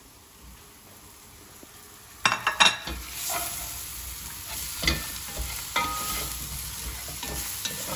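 Onion wedges and turmeric-coated potatoes frying in oil in a nonstick pot, stirred and scraped with a spatula. A loud clatter about two seconds in gives way to a steady sizzle with occasional spatula scrapes.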